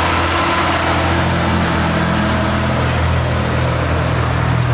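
Heavy vintage truck diesel engine running steadily at low speed with an even, low throb.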